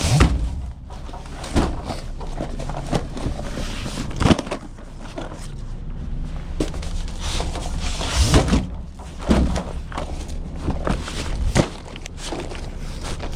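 Irregular knocks and thumps, about six of them spread out, over a steady low rumble and hiss.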